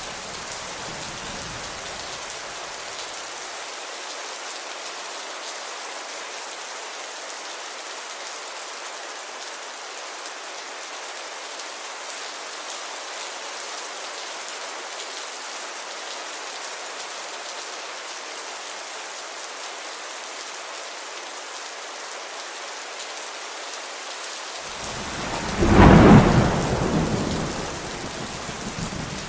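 Steady rainfall, an even hiss throughout. A low roll of thunder fades out over the first few seconds, and a louder thunder rumble swells near the end, peaks and dies away over about three seconds.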